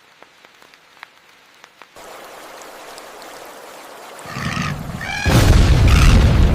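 Rain starts to hiss about two seconds in, and a deep thunder rumble swells up in the last second and a half to become the loudest sound. A harsh animal call with falling pitch cries out over the rumble near the end.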